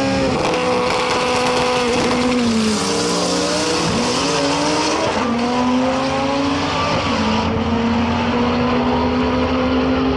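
A stick-shift drag-racing car at full throttle, its engine pitch holding or climbing and then dropping sharply at each gear change, about three shifts.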